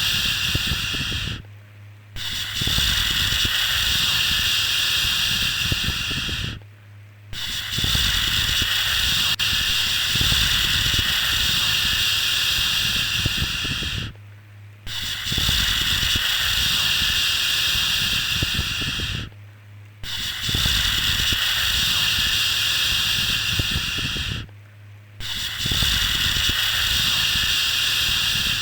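Long 'shhh' shushes, the kind used to settle a baby to sleep. Each shush runs several seconds, with a short break of under a second between them, about five times.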